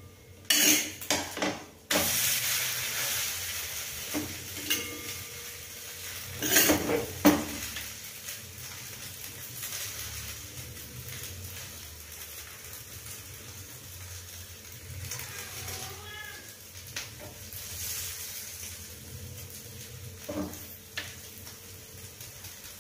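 A dosa sizzling on a hot tawa after oil is drizzled over it. The hiss starts suddenly about two seconds in, is loudest at first and slowly dies down. A few clinks of utensil on pan come near the start and again around seven seconds in.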